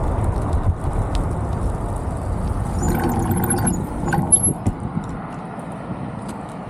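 Road vehicle noise: a car's engine and tyres running, with brief high-pitched squeaks about three to four seconds in; the noise eases off after about five seconds.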